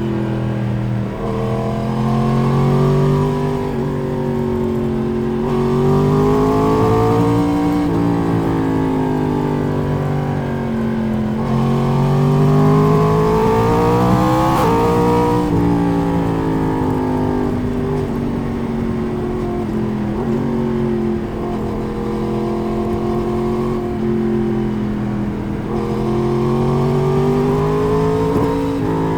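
Four-cylinder naked sportbike engine heard onboard while riding, pulling up through the revs and easing off several times, over the rush of wind. The revs climb highest about halfway through, then drop away sharply.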